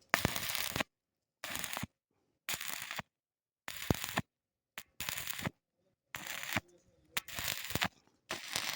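Electric arc welding crackle in about eight short bursts, each under a second, with abrupt dead silence between them.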